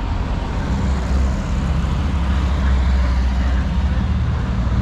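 A motor vehicle running: a steady, loud low rumble of engine and road noise.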